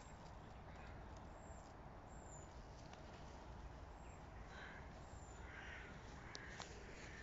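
Faint outdoor quiet with a few short, harsh bird calls in the distance from about four and a half seconds in.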